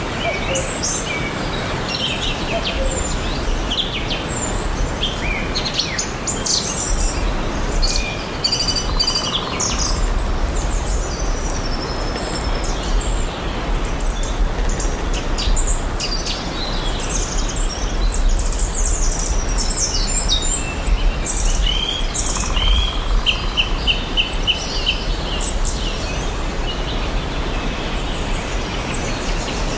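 Several songbirds singing and chirping at once over a steady background hiss, with a quick trill of repeated notes a little past the middle.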